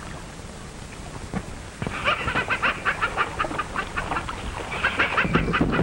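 A perched bird calling in two bouts of rapid, clucking short notes, about seven a second. A low steady hum comes in near the end.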